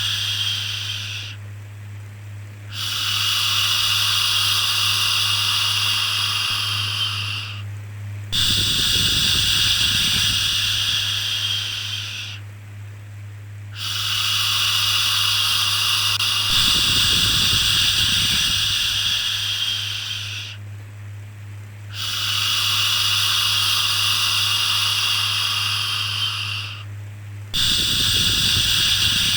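A long, drawn-out 'shhh' shushing sound repeated over and over, each shush lasting about five seconds with a short dip between, as used to soothe a baby. A steady low hum runs underneath.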